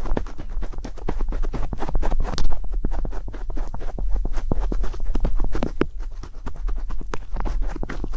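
Rapid, irregular tapping and clicking over a low steady hum.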